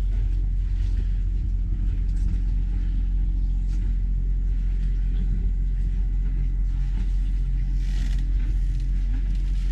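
Steady low engine rumble, an idling motor running evenly.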